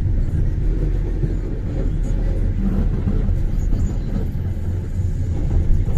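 Car driving on a snowy road: a steady low rumble of engine and tyres.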